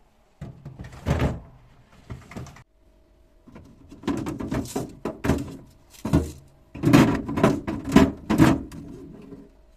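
Household handling noises: a quick run of knocks, clatters and rustles as things are moved about and set down, busiest in the second half, over a faint steady hum.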